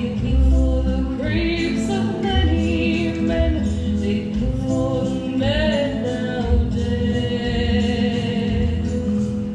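A woman singing a slow western ballad over backing music, holding long wavering notes.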